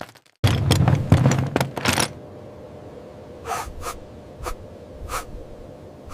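A crash sound effect: a loud burst of clattering impacts with a low rumble, lasting about a second and a half, then dying away. After it come a few short, breathy puffs, spaced irregularly.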